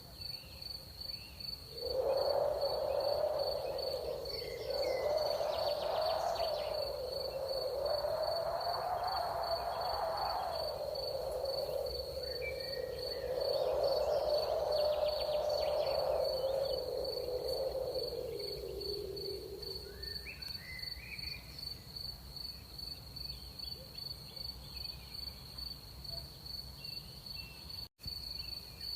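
Crickets trill steadily in a fast, even pulse. From about two seconds in until near the middle, a louder low tone drowns them out, wavering slowly up and down in pitch with a couple of short breaks, then fades away. A few faint short chirps are heard now and then.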